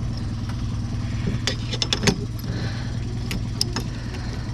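A boat engine idling steadily, with a few sharp knocks and clicks about a second and a half in and again a little after three seconds.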